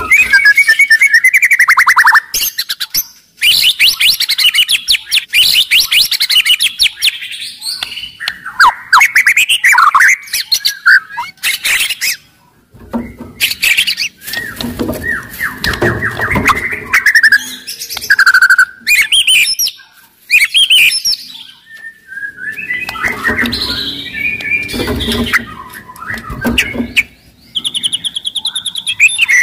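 White-rumped shama (murai batu) singing loudly in a varied song: fast runs of rapidly repeated notes, clear whistles and gliding notes, phrase after phrase with short pauses between.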